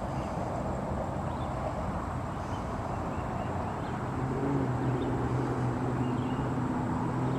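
Steady low rumble of distant vehicle traffic, with an engine hum coming in about halfway through. Faint bird chirps sound now and then.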